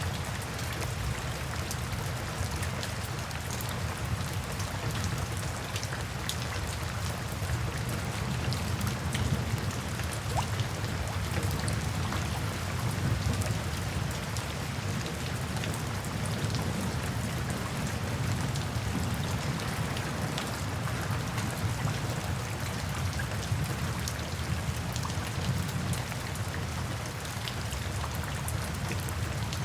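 Steady rain falling, a constant hiss with many individual drops ticking sharply through it.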